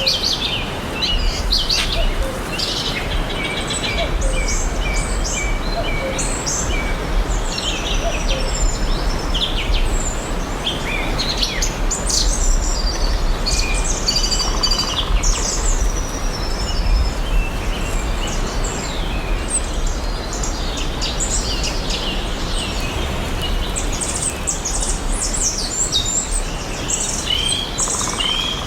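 Many forest birds chirping and singing, with short overlapping calls and trills coming thick and fast throughout, over a steady background hiss and low rumble.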